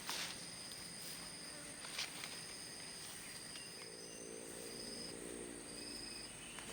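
Forest insects droning with a steady high-pitched tone, with a faint knock about two seconds in and a low hum in the middle.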